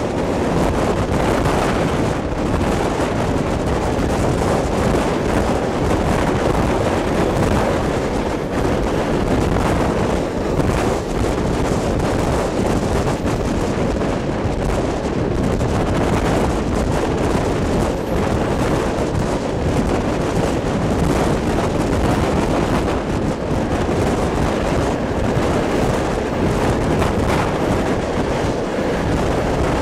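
Rushing wind on the microphone at the open window of a moving passenger carriage, over the steady running noise of the train at speed.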